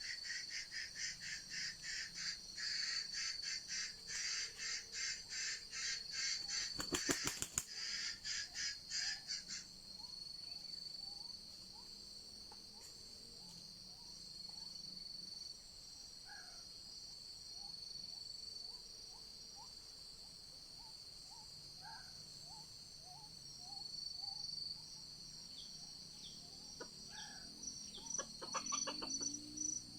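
Junglefowl calling, with a low repeated call near the end, over the steady high buzz of forest insects. A fast pulsing insect chirr runs through the first ten seconds, and a short burst of clicks comes about seven seconds in.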